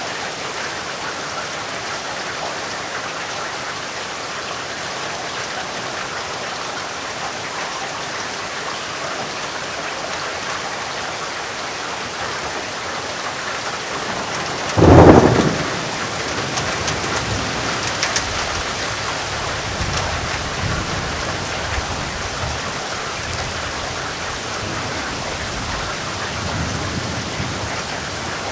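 Steady rain falling, with a sharp thunderclap about halfway through followed by low rolling rumbles of thunder that die away.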